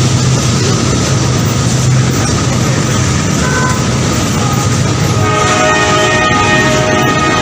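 A train running with a steady low rumble, then a train horn sounding a long chord from about five seconds in.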